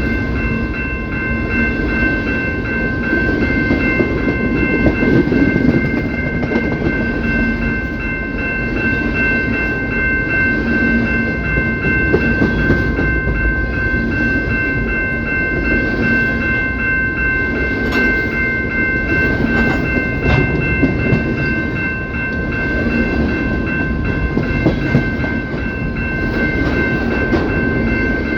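Train cars rolling past on the rails: a steady heavy rumble that swells and eases, with a couple of sharp clanks about two thirds of the way in. A steady high-pitched whine of several pitches runs under it throughout.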